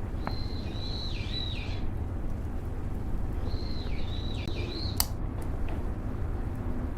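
A songbird singing two short whistled phrases, each with quick downward-dipping notes, a couple of seconds apart, with a sharp click just after the second. Beneath it is a steady low rumble like wind or distant traffic.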